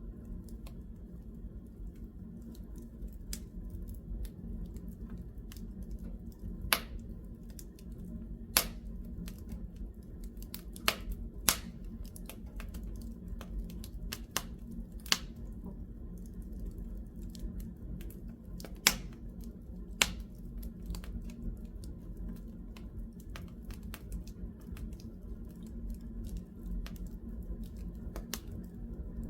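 Wood fire in a fireplace crackling, with irregular sharp snaps and several louder pops over a steady low rumble.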